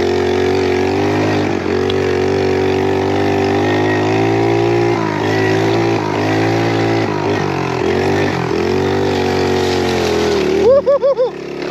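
Small pit bike engine running under throttle, its pitch wavering up and down as it is ridden, then revving up and dropping sharply four or five times in quick succession near the end.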